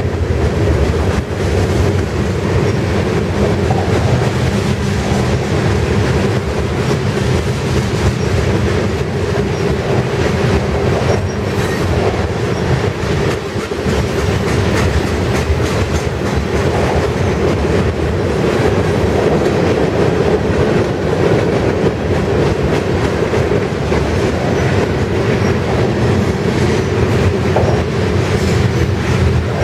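Freight cars of a mixed freight train (boxcars, tank cars and covered hoppers) rolling past close by. Their steel wheels make a steady, loud rumble on the rails that holds unchanged throughout.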